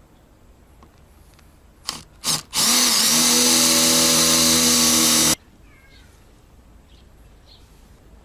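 Power drill triggered in two short blips, then run steadily for about three seconds before cutting off abruptly.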